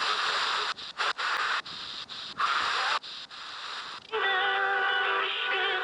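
Degen DE321 portable shortwave radio being tuned across the band: its speaker plays bursts of static hiss broken by brief muted gaps as it steps from frequency to frequency. About four seconds in it settles on a station playing music with singing.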